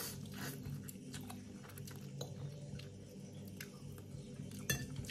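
Faint chewing and wet mouth clicks from a man eating vegetable ramen noodles, over a steady low hum. One sharper click comes near the end.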